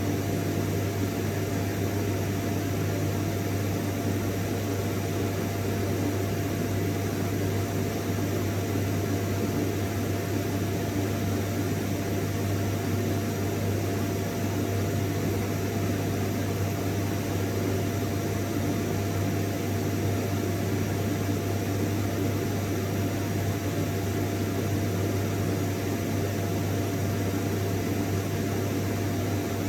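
Vacuum cleaner running steadily: an even rush of air over a strong low hum, with a thin steady whine above it that never changes.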